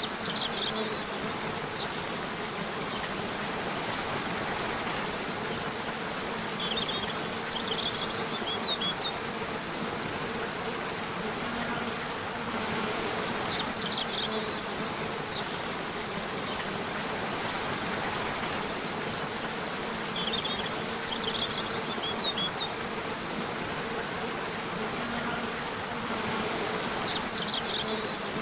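Nature soundscape: a steady insect buzz over an even rushing noise, with short clusters of high chirps every few seconds.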